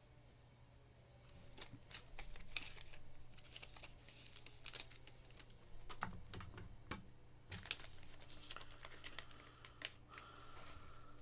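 Faint, irregular clicks and short rustles of sports card packs and plastic card cases being handled and opened. A brief faint tone sounds near the end.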